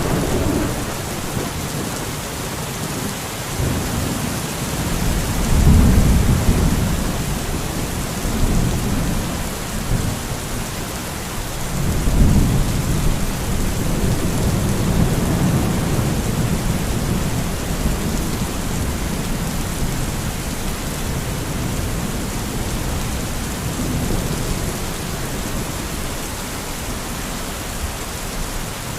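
Steady heavy rain with rolling thunder. Two deep rumbles swell and fade, one about six seconds in and a longer one from about twelve to sixteen seconds, and a fainter rumble comes near the end.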